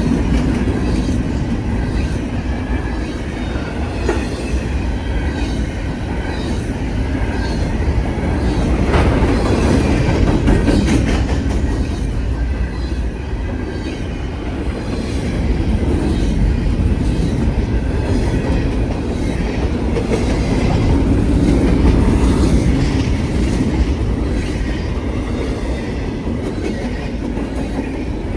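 Norfolk Southern freight train cars rolling past, a steady heavy rumble with wheels clicking over the rail joints and some wheel squeal.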